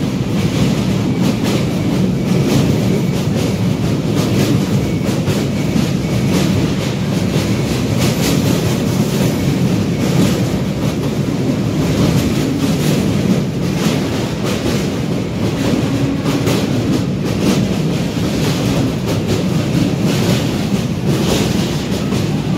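MEMU electric train running across a steel truss bridge, heard from its open door. A steady rumble of wheels on rail with a fast, continuous clatter of clicks.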